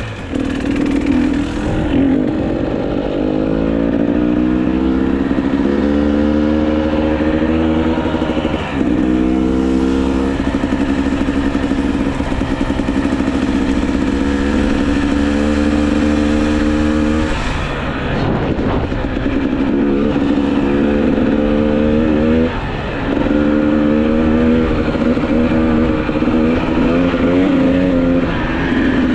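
GasGas EC300 two-stroke enduro motorcycle engine under way, its pitch climbing in long pulls as it accelerates and dropping back sharply three times.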